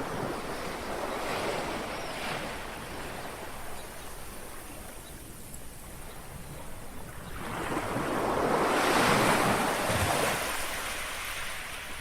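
Small sea waves lapping on a shore: a gentle wash in the first couple of seconds, then a louder wave swells up and washes in from about halfway through, fading again near the end.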